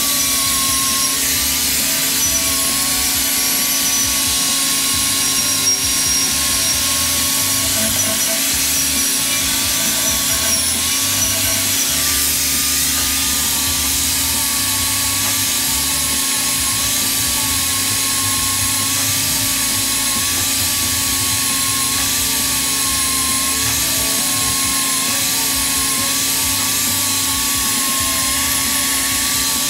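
Angle grinder with a wire wheel running against the 4-inch steel pipe of an auger shaft, scrubbing off rust to clean the metal before welding. The motor runs continuously with a steady whine that wavers slightly in pitch.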